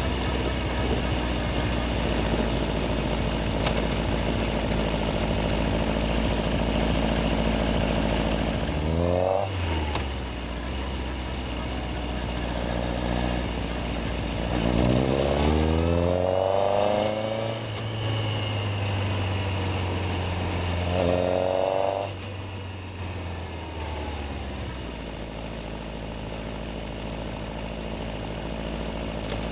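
Yamaha XJR1300's inline-four engine idling, then revving up three times in rising sweeps, each cut off sharply as it shifts or closes the throttle, before settling back to a low, steady run.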